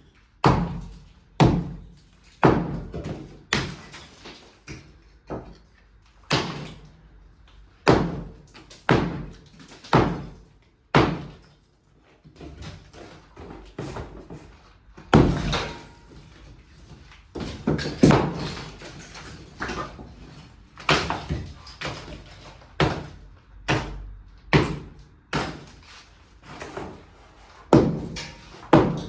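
A series of loud, sharp bangs and thuds at irregular intervals, roughly one a second, each with a short ringing decay, with a brief lull about halfway through.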